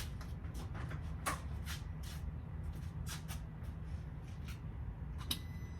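Irregular sharp clicks and rustles of handling, about a dozen scattered through, over a low steady rumble.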